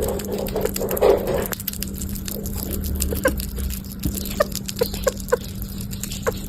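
Sugar glider giving a series of short, squeaky yips, about seven spread irregularly after a rushing, scrabbling noise in the first second and a half, with light clicks and a steady low hum underneath.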